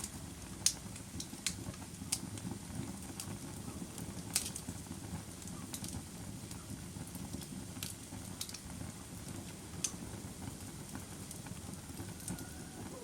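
Campfire burning: a steady low rush of flames with scattered sharp crackles and pops from the burning wood, the loudest pop under a second in.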